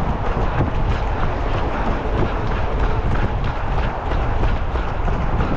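Strong wind buffeting the microphone, with a quick, even rhythm of running footfalls under it.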